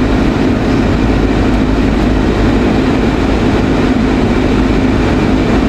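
Steady drone of a parked vehicle idling with its air conditioning blowing, heard from inside the cab: an even low rumble with a constant hum over it.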